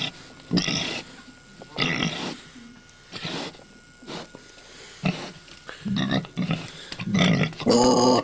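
Pregnant sow making short grunts, about one a second, the last one near the end louder, longer and higher. These are the funny noises of a sow about to give birth.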